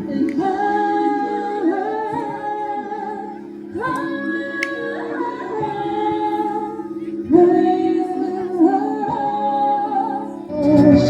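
A woman singing a slow song in three long, held phrases over a steady low sustained accompaniment. The music grows louder near the end.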